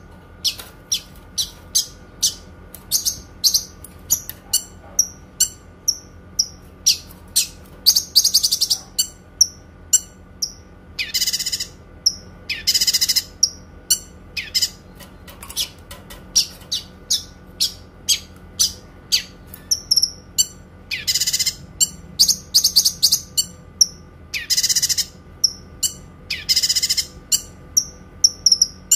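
Kinoi songbird singing: a fast series of short, sharp, high chirps, broken every few seconds by longer rattling trills, the long bursts ('tembakan panjang') that bird keepers prize.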